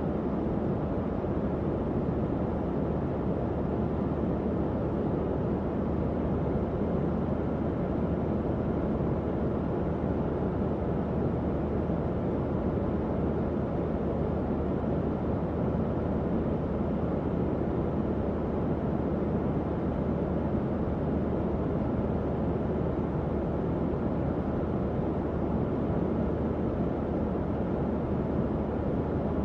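Tower fan running steadily: an even, low whoosh of moving air with a faint hum underneath.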